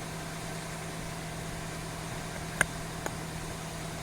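Vehicle engine idling steadily with a low hum, and two faint clicks near the end.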